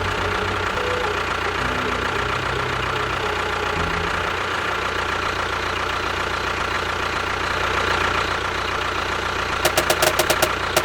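An engine running steadily, with a fine even rattle. Near the end comes a quick run of about eight sharp clicks.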